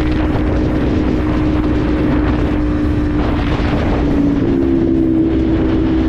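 Motorcycle engine running steadily under way, with wind rushing over the microphone. The engine note steps up slightly about four and a half seconds in.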